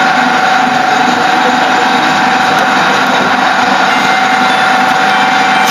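Machinery running steadily at a constant speed, with a steady whine over a loud hum.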